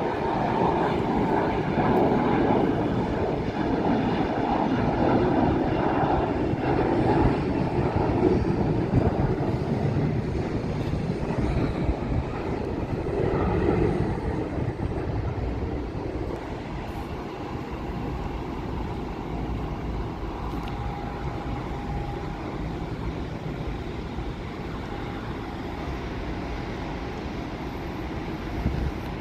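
Jet airliner engines rushing past, loudest over the first half and fading away after about fifteen seconds.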